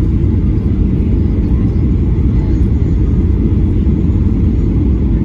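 Airliner cabin noise heard from a passenger seat: the steady, deep rumble of the jet engines and airflow during the approach.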